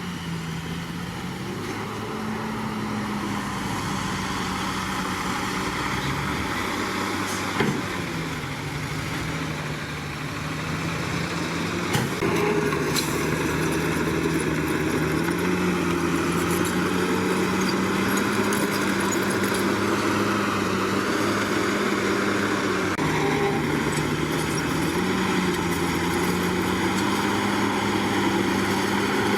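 Komatsu D61PX bulldozer's diesel engine running steadily under load, its pitch rising and falling a few times as the throttle changes, with two sharp metallic clanks, one about a quarter of the way through and one near the middle.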